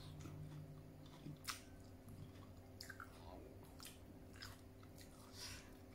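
Faint close-up chewing and biting of raw pear slices, with a few scattered soft crunches.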